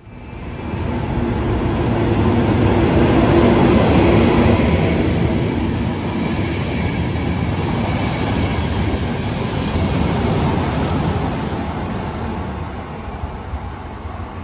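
A train running past close by on the station tracks. Its sound swells to a peak about four seconds in and dies away over the last few seconds.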